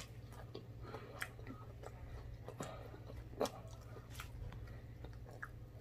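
Chewing a crunchy fried chicken wing coated in crushed Flamin' Hot Cheetos: faint scattered crunches and mouth sounds, with one louder crunch about three and a half seconds in, over a low steady hum.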